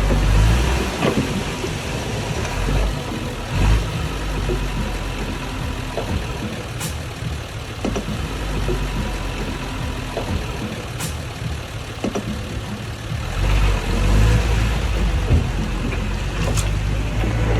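Diesel engine of earth-moving machinery at work, running strongly, dropping back for much of the middle and rising again near the end, with scattered metallic clanks.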